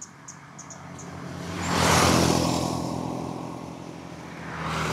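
A road vehicle passing close by, its noise rising to a peak about two seconds in and fading away, with another vehicle approaching near the end.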